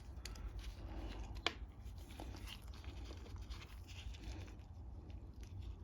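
Faint clicks and light taps of small lawn mower carburetor parts being handled and fitted back together, with one sharper click about a second and a half in, over a low steady hum.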